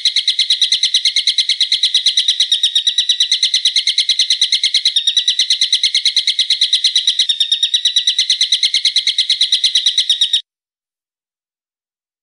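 Recorded bird call: a fast, even series of sharp high notes, about eight a second, cutting off suddenly near the end.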